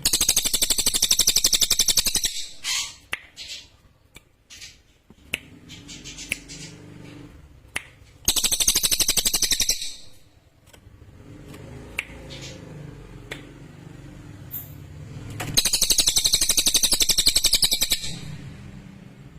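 Cililin songbird singing: three long, loud, very rapid high-pitched trills, with shorter chips and notes in between.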